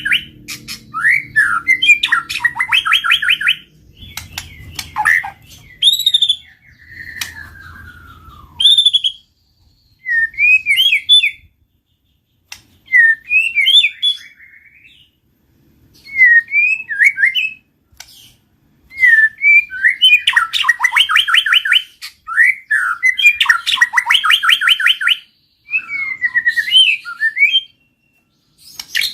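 White-rumped shama singing: loud, varied whistled phrases and fast runs of rapidly repeated notes, broken by short pauses, with a long falling whistle about seven seconds in.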